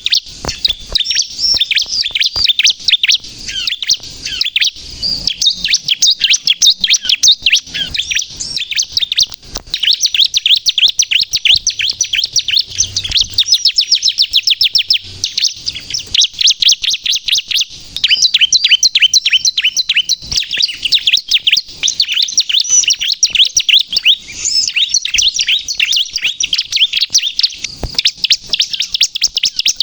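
Bar-winged prinia (ciblek, crystal colour variant) singing vigorously: a loud, unbroken run of quick high chirps, many notes a second.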